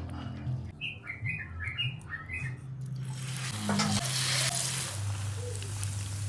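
Hot oil starts sizzling about halfway in as tahu bakso (meatball-stuffed tofu) goes in to fry, and the sizzle carries on steadily. Before it, a series of short high chirps.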